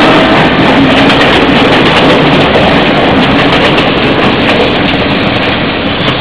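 Kiha 59 'Kogane' diesel railcar set passing close by: loud, steady rumble of wheels on rail with many quick clicks, easing off slightly near the end.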